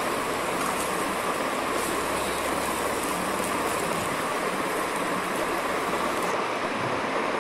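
Bitter gourd slices sizzling steadily as they fry in oil in a pan, well fried and nearly done.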